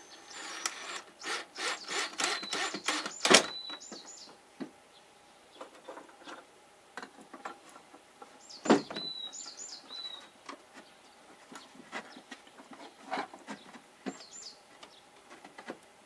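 Short high bird chirps in small groups, heard several times, over a run of clicks and wooden knocks from hand work with wood and tools. The knocks are thickest in the first few seconds, with the loudest about three and nine seconds in.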